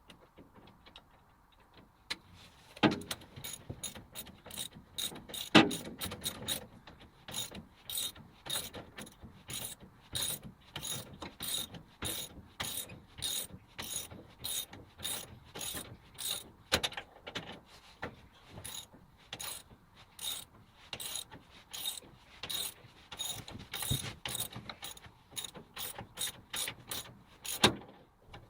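Repeated sharp mechanical clicks, about two a second, from a metal mechanism being worked, most likely on the lathe, with a few heavier knocks among them.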